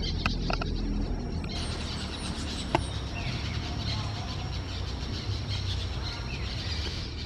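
Wild parrots calling: a few short squawks near the start and a sharp call about three seconds in, over dense high chatter and a steady low rumble.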